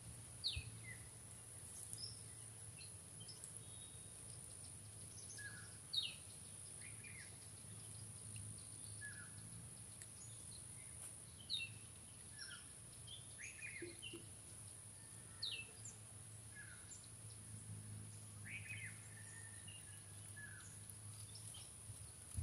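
Faint birdsong: short, falling chirps every second or so, over a constant high-pitched whine and a low steady hum.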